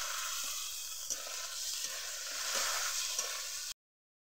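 Chopped tomatoes, onions and garlic paste sizzling in hot oil in a wok, stirred with a metal spatula that ticks against the pan now and then. The sound cuts off suddenly near the end.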